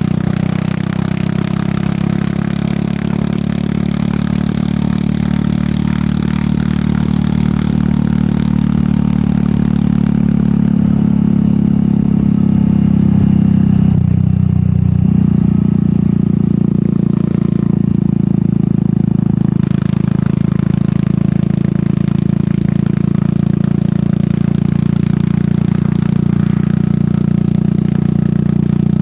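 Royal Enfield Meteor 350's single-cylinder engine running through an aftermarket sport exhaust while the bike is ridden at a steady pace. The engine note breaks and shifts briefly about halfway through, then holds steady again.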